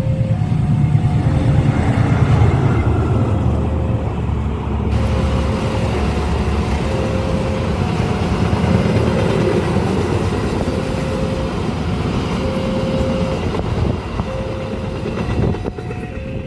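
Train passing a level crossing at speed: a heavy rumble of locomotive and wheels on the rails, easing into a rushing clatter after about five seconds. Over it, the crossing's electronic warning signal repeats a two-tone chime.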